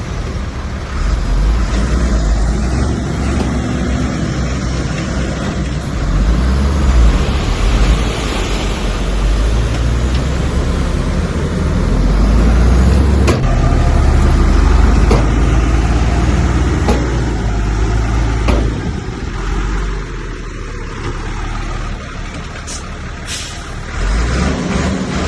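Heavy diesel engine of a Komatsu bulldozer working under load, swelling and easing, with a few sharp metallic knocks in the middle.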